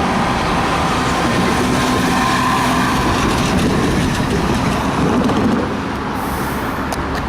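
Steady road and traffic noise heard from a moving electric bike, with wind on the microphone. It eases off slightly near the end.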